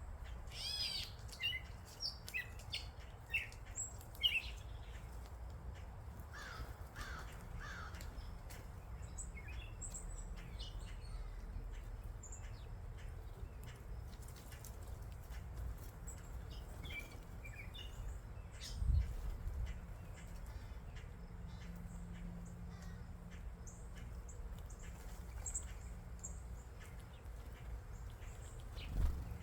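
Wild birds chirping and calling, with a quick run of high chirps in the first few seconds and three short, lower calls in a row about seven seconds in. Scattered chirps continue over a steady low rumble, broken by two brief thumps.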